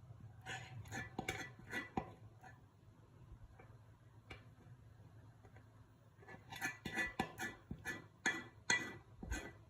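Dishes and cutlery clinking together in two bursts of quick clicks and knocks, each with a short ring. The first comes about half a second in, the second about six and a half seconds in and runs on to near the end.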